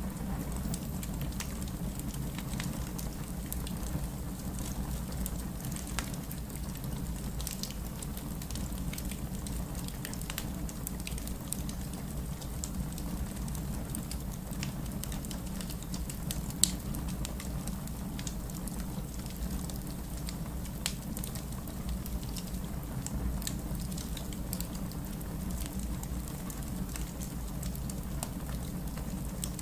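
Wood fire in a fireplace crackling: a steady low rumble under an irregular scatter of small pops and snaps, with one sharper pop a little past the middle.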